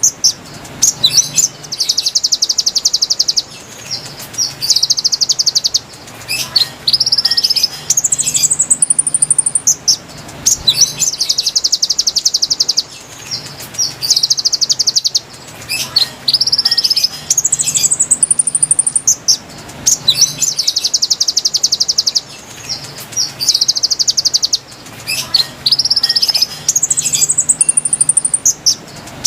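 Konin bird song used as a lure. The same phrase repeats about every eight seconds: a high rising call, then fast buzzy trills of a second or two each.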